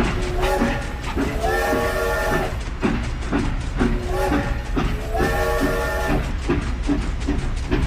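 Train sound: steady clickety-clack of wheels on rail joints, about three clicks a second, with a multi-tone train horn sounding a short blast then a long blast, twice.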